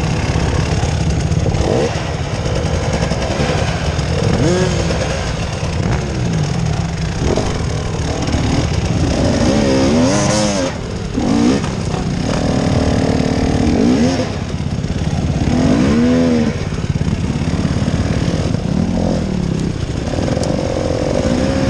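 Off-road vehicle engine running under load and being revved up and down in short repeated bursts.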